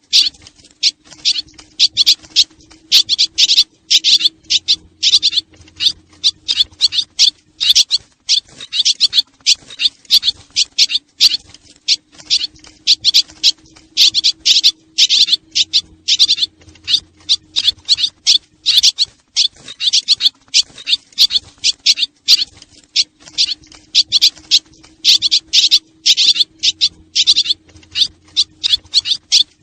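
Dense, rapid high-pitched chirping and twittering of a flock of swiftlets, a recorded lure call used to attract the birds. Under it a faint low hum comes and goes in a cycle of about eleven seconds.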